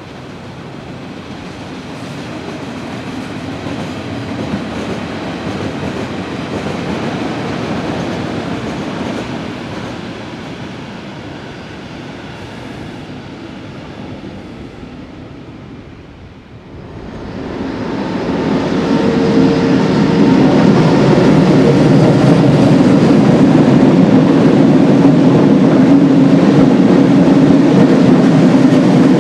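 A Berlin S-Bahn electric train running past at a distance, its rail noise swelling and then fading. About 16 s in, the sound changes to a much louder steady rumble with a low hum as a DB electric locomotive hauling a passenger train crosses a concrete viaduct close by.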